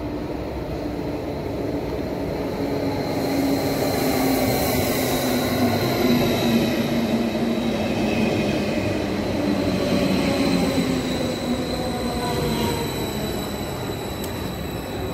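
DB double-deck InterCity electric train running past along the platform in an underground station. It makes a steady rumble with a hum and is loudest about six seconds in, as the coaches go by. Partway through, a tone falls in pitch.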